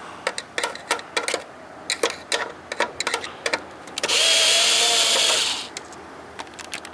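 A power drill-driver runs for about a second and a half with a steady whine, backing a screw out of the monitor's plastic back casing. Before and after it come scattered light clicks and taps of the screws and casing being handled.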